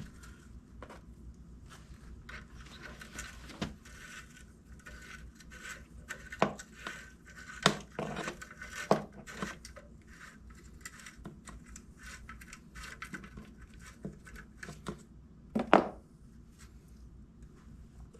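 Scattered small clicks and scrapes of metal bolts and hand tools being handled as bolts are started by hand, with a few sharper metal knocks, the loudest a little before the end.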